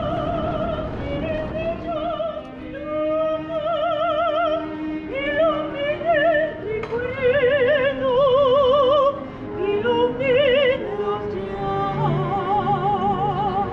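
Operatic singing: a high voice holds long notes with wide vibrato, moving up and down in steps, over a quieter accompaniment.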